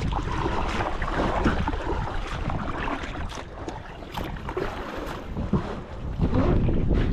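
Wind buffeting the microphone as a low rumble, with water splashing and lapping in small irregular bursts.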